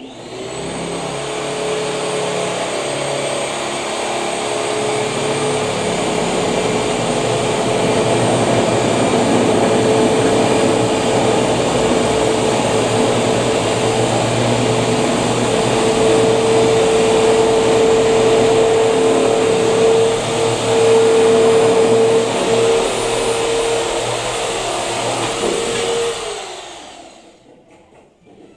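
An electric motor runs loudly and steadily with a high, even hum, then winds down and stops about 26 seconds in.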